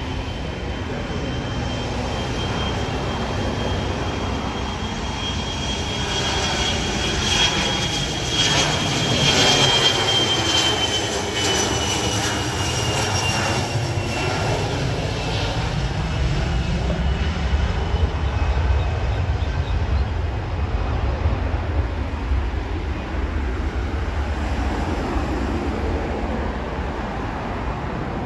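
An airplane's engines as the aircraft passes close by. A high whine falls slowly in pitch as it goes past, loudest about ten seconds in. A deep rumble follows.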